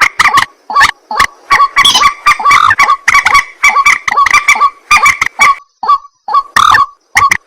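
Ruak-ruak (white-breasted waterhen) calling loudly: a rapid, continuous run of short, harsh, croaking calls, about two to three a second, thinning briefly near the end.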